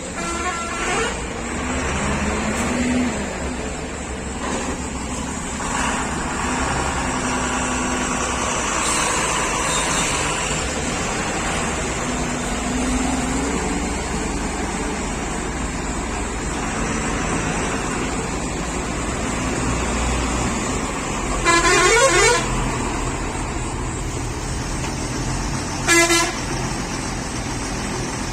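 Truck engine running steadily with road noise while driving, with two horn blasts: a longer one about twenty-two seconds in and a short toot about four seconds later.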